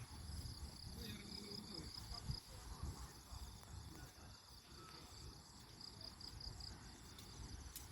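Insects chirping in steady, rapidly pulsing trills, over a faint low rumble.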